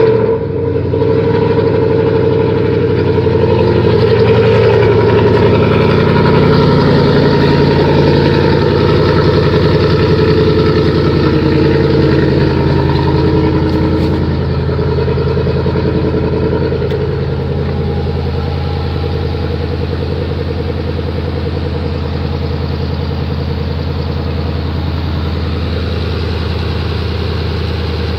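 Ford 5.0 Coyote DOHC V8 running at fast idle just after a cold start. It is loudest in the first few seconds and settles to a slightly lower, steady idle about halfway through.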